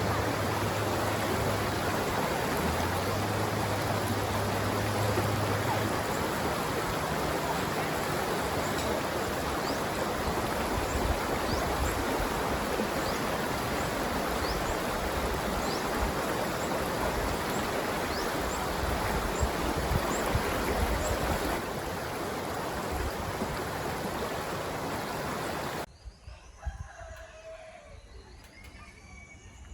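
Steady rushing noise that cuts off abruptly near the end, leaving quieter outdoor ambience with a few short bird calls.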